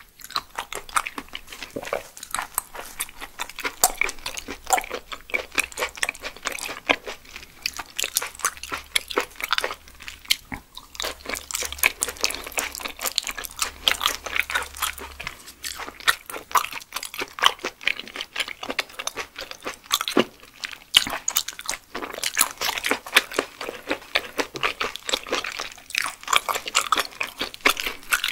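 Close-miked chewing of raw yellow stingray sashimi, a dense run of small wet clicks and crunches that pauses briefly now and then.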